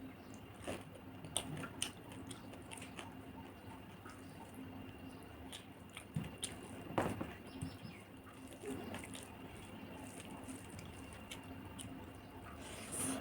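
Close-up eating sounds: chewing with scattered small wet mouth clicks, one louder about seven seconds in, over a faint steady hum.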